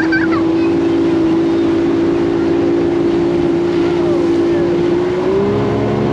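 Outboard motor running hard, driving an aluminium dinghy along on the plane: a steady drone with wind rushing over the microphone. About five seconds in, the engine note rises a little.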